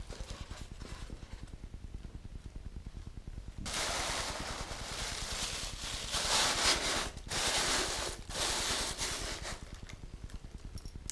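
Rustling and scraping of packaging as die-cast model crane parts are lifted out of their tray, in several noisy bursts between about four and nine and a half seconds in, over a fast, steady low pulsing.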